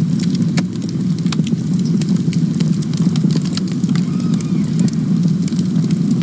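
Wood campfire crackling, with frequent sharp pops and snaps over a steady low rumble of burning.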